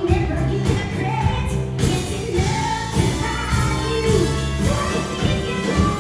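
Live band and singers performing a pop song: sung notes held over a steady drum beat, in a large hall.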